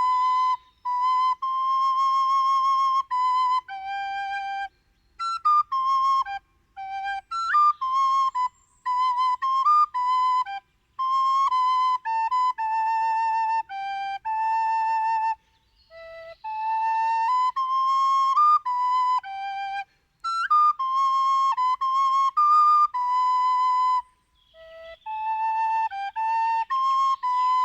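Solo flute playing a slow melody, held notes with a slight vibrato in short phrases broken by brief pauses and breath.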